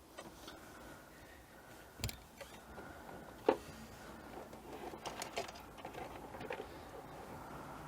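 Irregular light clicks and knocks of hand tools and plastic trim as a car's kick panel is unbolted and removed. There is a louder knock about two seconds in, another about three and a half seconds in, and a flurry of small clicks later on.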